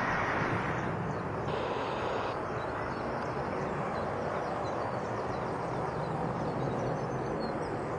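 Steady jet aircraft engine noise with no bangs, joined by faint high chirps.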